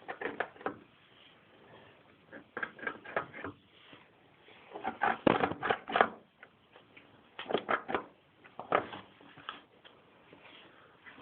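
Bursts of rapid scratching and clicking from behind metal panelling, coming in clusters about a second long every second or two, loudest about five to six seconds in. The source is unseen.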